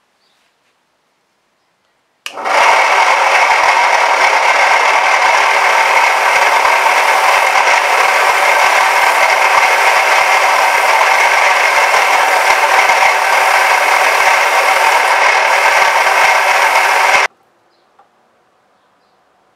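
A power tool running steadily for about fifteen seconds. It starts suddenly a couple of seconds in and cuts off sharply near the end.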